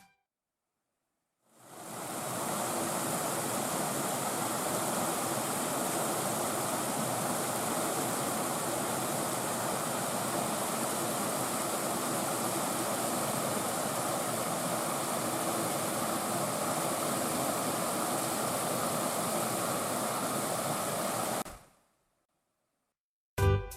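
Water rushing steadily down a series of small cascades over bare rock in a mountain gorge. It fades in after a moment of silence, holds even, and fades out near the end.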